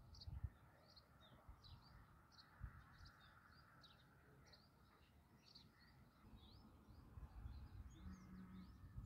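Faint chirping of small birds: many short, quick chirps one after another, with a few low thumps.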